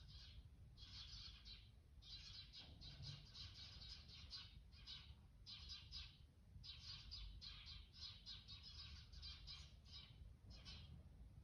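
Small birds chirping: quick runs of high chirps, each run lasting about a second, coming one after another with short gaps.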